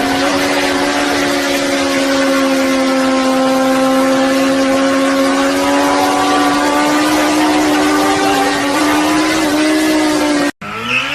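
An engine held at steady high revs, its pitch drifting only slightly. Near the end it cuts off abruptly, and a different engine starts up rising in pitch.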